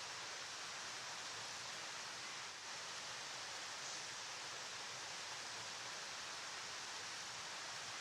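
River water flowing steadily: an even, unbroken rushing hiss, strongest in the upper range.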